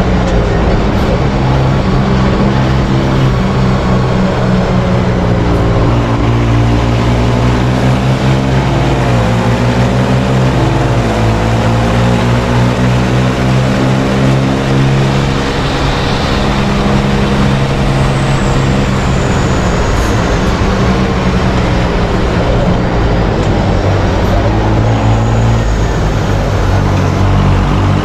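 Racing truck engine running hard under load, its pitch dipping and climbing again with gear changes and throttle, over constant road and track noise.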